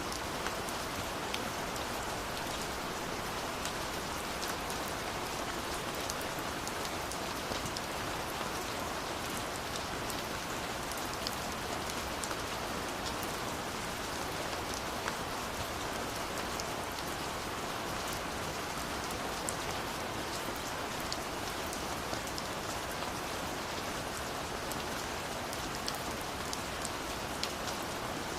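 Steady rain falling, an even hiss with many small sharp drop ticks throughout.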